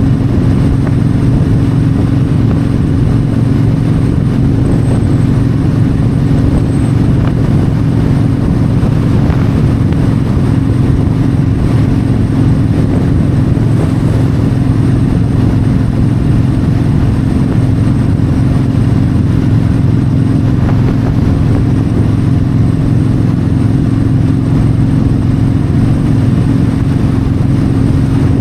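Yamaha V-Star 1300's V-twin engine running steadily at highway cruising speed, with wind rushing over the microphone.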